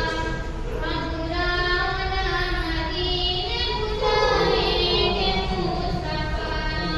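A high solo voice singing a naat in long, held notes that bend and slide between pitches.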